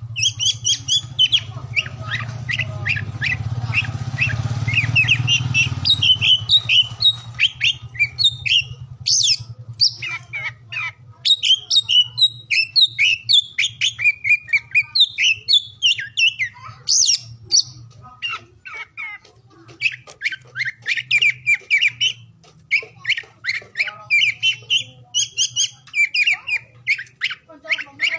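Oriental magpie-robin (kacer) singing a long, fast stream of varied whistled and chattering phrases with harsh squawky notes, pausing briefly a couple of times. A low hum sits under the song in the first few seconds.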